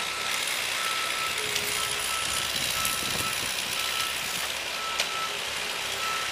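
A vehicle's reversing alarm beeping at a steady, regular pace over engine noise and wind.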